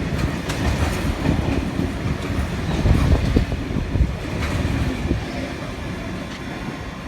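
Freight train of steel flatbed wagons rolling past, wheels rumbling with sharp clicks over the rail joints. It grows loudest a few seconds in, then fades toward the end as the train draws away.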